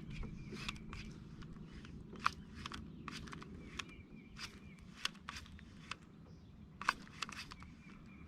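Scattered light clicks and taps at irregular intervals, two of them louder, about two seconds in and near the end, over a faint low hum.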